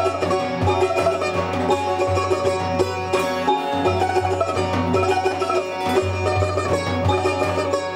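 Persian music with plucked string instruments playing a melody over a steady bass line.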